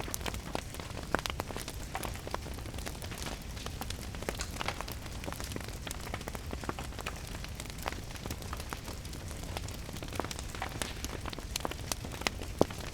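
Wood fire crackling in a fireplace, with irregular sharp pops and snaps, over a steady hiss of rain and a low rumble. A louder pop comes near the end.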